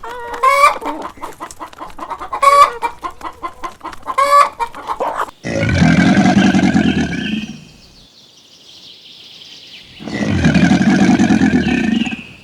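Chickens clucking in quick, repeated calls, then two long, loud animal calls of about two seconds each, starting about five and about ten seconds in.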